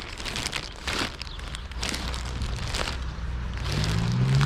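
Scattered crackles and patter over a steady hiss of rain and wind. About three and a half seconds in, a car engine comes up, low and growing louder toward the end.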